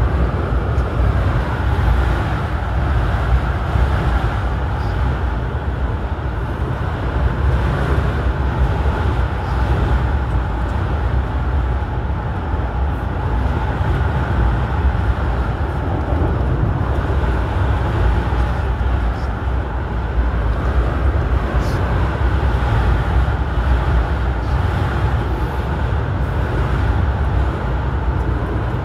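Airport Railroad electric commuter train running steadily at speed, heard from inside the carriage: a constant low rumble of wheels on rails and running gear, with no change in pace.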